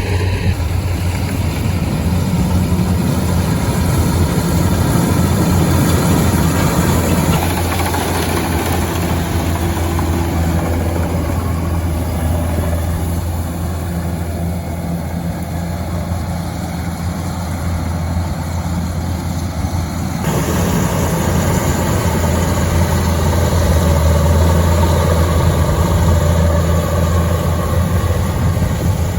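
An engine running steadily with a low hum. About two-thirds of the way through it cuts abruptly to another stretch of similar engine noise.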